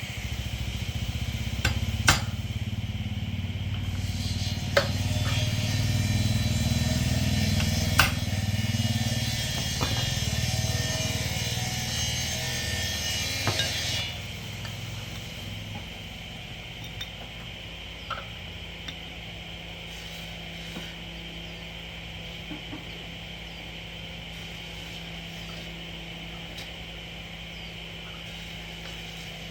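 A machine running steadily, with a few sharp knocks in the first several seconds; about fourteen seconds in it drops to a quieter, steady low hum.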